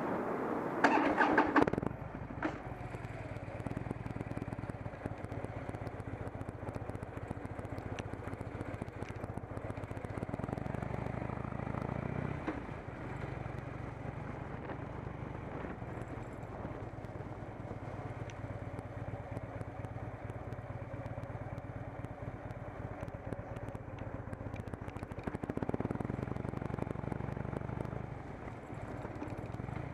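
Harley-Davidson Dyna Low Rider's V-twin engine running steadily while riding, its note shifting a couple of times, with a brief louder burst about a second in.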